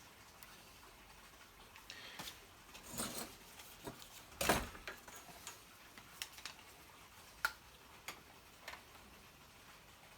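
Scattered clicks and light knocks of small parts and hand tools being handled, with a louder knock about four and a half seconds in and a few sharp single clicks after.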